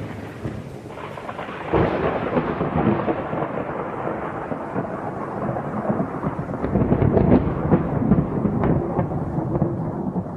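Thunderstorm: rolling thunder over steady rain, the rumble swelling louder about two seconds in.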